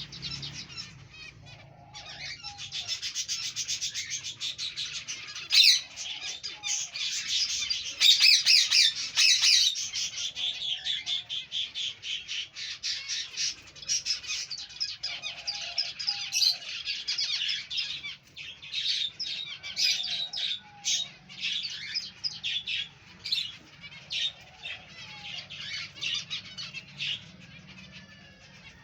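Many finches in an aviary chirping and calling at once, a dense continuous chatter of short, high notes.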